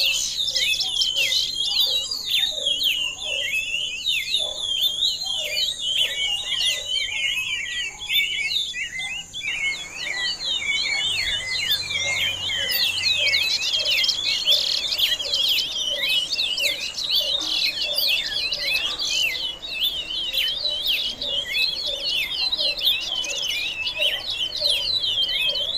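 Many small birds chirping and twittering at once in a dense, unbroken chorus of quick high notes. A thin steady high buzz runs underneath and stops about two-thirds of the way through.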